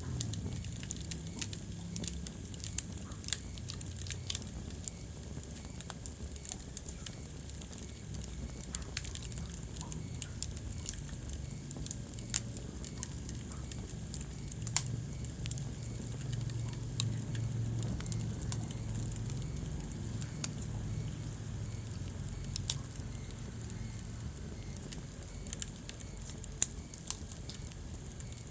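Wood fire crackling in a fireplace: irregular sharp pops and snaps, a few of them much louder, over a low steady rumble of the flames.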